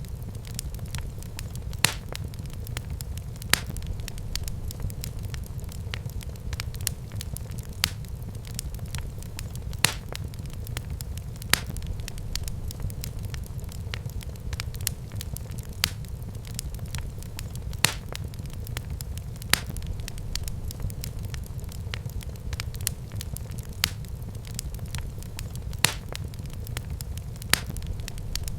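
Fire burning in a fireplace: a steady low rumble with irregular crackles and sharp pops, the louder pops coming every couple of seconds.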